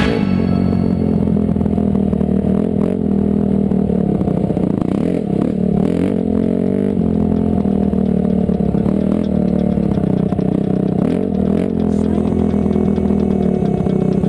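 Dirt bike engine running at a fairly steady speed, its pitch rising and falling a little, with scattered clicks and knocks.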